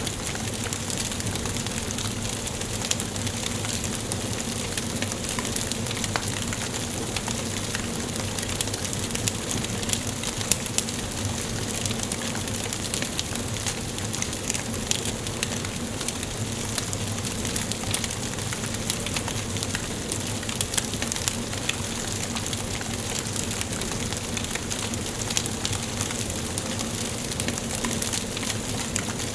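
Wood fire burning in a fireplace, crackling steadily with frequent small pops and snaps over a constant hiss.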